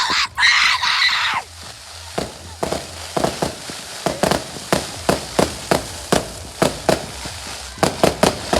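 Fireworks going off. A loud hissing burst comes in the first second and a half, then a string of sharp cracks and bangs, two or three a second, like a firecracker barrage.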